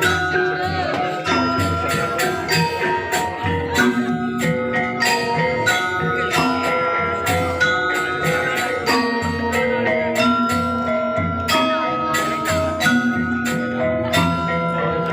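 Balinese gamelan playing. Struck bronze metallophones ring out a busy melody of sustained notes over a steady pulse.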